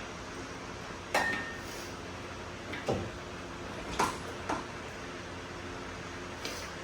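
Metal tools and parts clanking and clinking as they are handled, about five sharp knocks spread over the stretch, the first ringing briefly, over a steady low hum.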